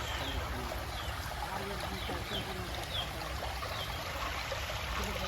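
Floodwater from heavy rain flowing steadily, like a running stream, with short high chirps recurring about once a second.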